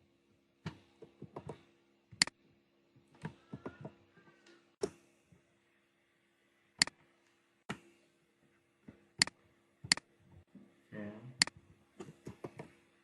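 Computer mouse clicks, single sharp clicks every second or so, mixed with short runs of quicker, softer keyboard taps, over a faint steady electrical hum.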